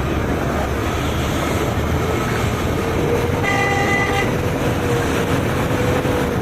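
A loud, steady rushing noise. About three and a half seconds in, a vehicle horn honks for under a second, over a long, steady hum that holds from about three seconds in.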